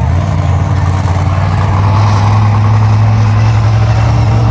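Monster truck engine running loud and steady, growing a little louder about two seconds in.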